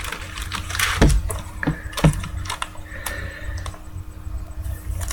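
Trading cards being handled: scattered light clicks and taps, a short rustle about a second in, and brief sliding scrapes as cards are moved and shuffled.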